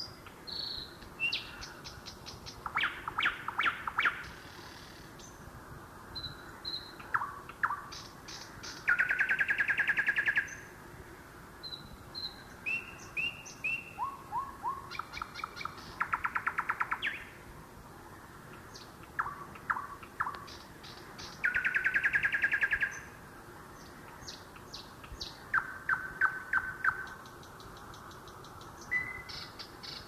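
Several songbirds singing, with varied chirps and short whistled notes. Three times a louder, fast, even trill lasts about a second and a half.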